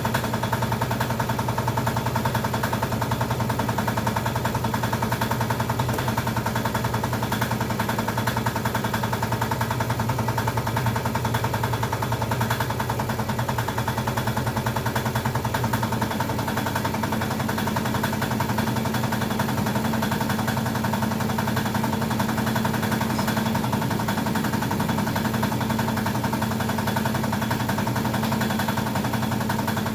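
A small motor running steadily with a fast, even buzz; about halfway through its pitch shifts upward.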